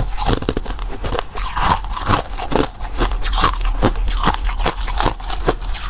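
Close-up chewing and crunching of food in the mouth: a dense, irregular run of crisp crackles over a steady low hum.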